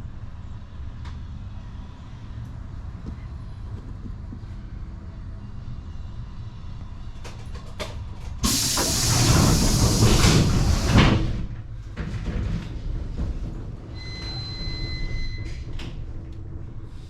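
Suburban passenger train heard from inside the carriage, running with a steady low rumble. About halfway through, a sudden loud hiss lasts under three seconds and cuts off sharply, and a faint steady whine follows near the end.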